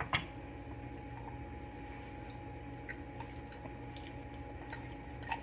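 A person chewing a hot mouthful of freshly cooked taco meat, with small wet mouth clicks, over a steady background hum. A sharp click sounds right at the start.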